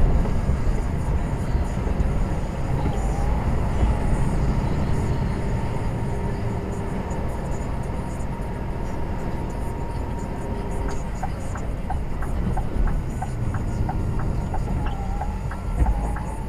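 Inside a truck cab on the move: a steady low rumble of engine and road noise. About two-thirds of the way in, a regular light ticking starts, roughly three ticks a second.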